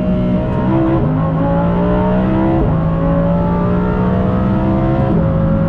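Lamborghini supercar engine accelerating hard through the gears, heard inside the cabin. The pitch climbs in each gear and drops sharply at upshifts about a second in, near three seconds and about five seconds in.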